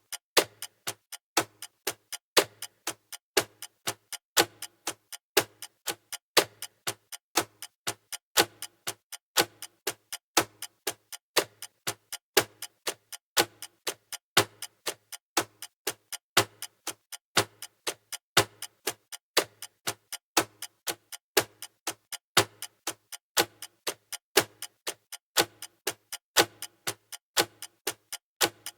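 Clock ticking sound effect of a countdown timer: a steady, even run of sharp ticks, a few a second, some louder than others.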